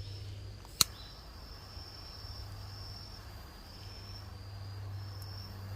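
Crickets trilling in repeated high-pitched phrases over a steady low hum, with one sharp click about a second in.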